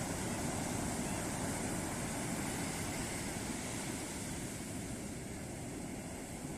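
Ocean surf breaking and washing on a beach: a steady, even rush of waves, easing slightly near the end.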